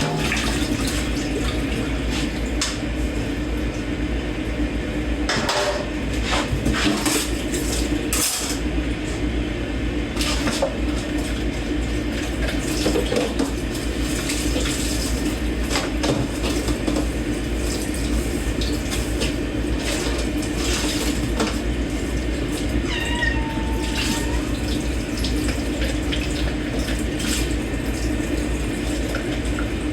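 Dishes being washed by hand in a sink: tap water running steadily, with scattered clinks of plates and cutlery. About three-quarters of the way through, a cat gives a short, faint meow in the background.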